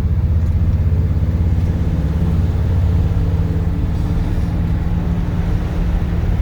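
1965 Ford F100 pickup's engine pulling steadily on a road test, heard from inside the cab as a low, even rumble with road noise.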